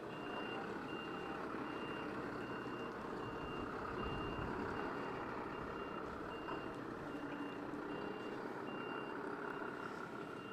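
Truck reversing alarm beeping in an even, repeating high-pitched pattern over the low running of a lorry's diesel engine as the truck manoeuvres.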